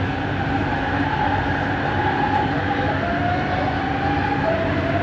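Kelana Jaya Line Bombardier ART train's linear induction motor whining over the steady rumble of the car, the whine rising in pitch from about halfway in as the train gathers speed.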